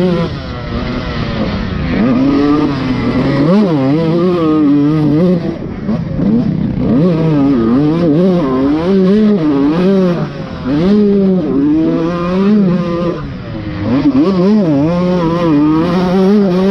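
Dirt bike engine being ridden hard, its pitch repeatedly rising under throttle and dropping off again as the rider works through the gears.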